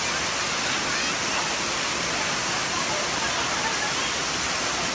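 Waterfall: a steady, unbroken rush of falling water, with faint voices in the background.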